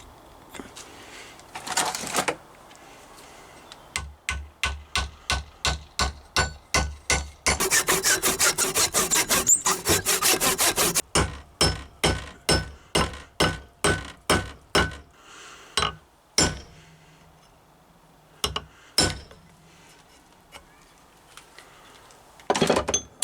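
Wood being sawn by hand in regular back-and-forth strokes, about three a second, quickening in the middle and stopping about two-thirds of the way through, with a few single strokes after.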